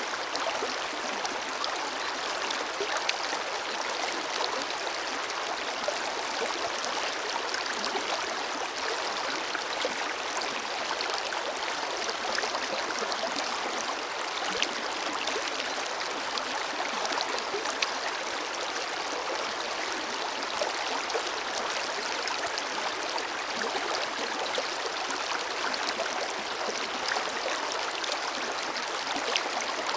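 Forest river flowing, a steady rush of water with small splashes and gurgles over it.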